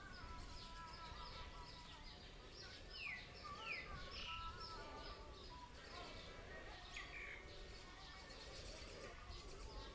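Small birds chirping faintly: a steady run of rapid, short falling chirps, with louder downward-sweeping calls about three seconds in, again half a second later, and about seven seconds in.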